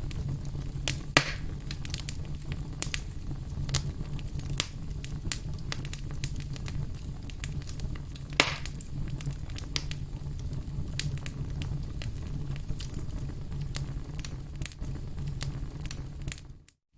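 Burning firewood crackling and popping irregularly over a steady low rumble of the flames, with two louder pops, about a second in and about eight seconds in. The sound cuts out for a moment near the end.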